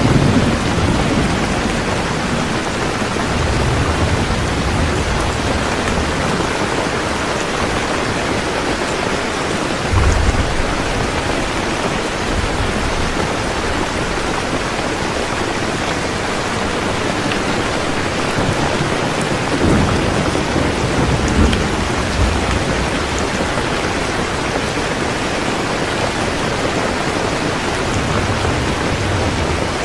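Heavy rain falling steadily, with rolls of thunder rumbling low underneath, most strongly about ten seconds in and again around twenty seconds in.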